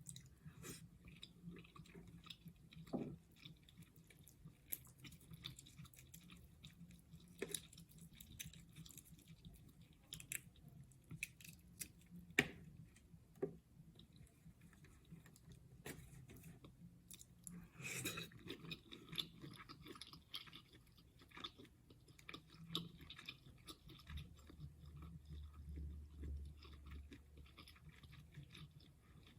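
Close-miked chewing of crab legs and shrimp in butter sauce: soft wet mouth sounds with scattered sharp clicks, and a denser patch of crackling about two-thirds of the way through.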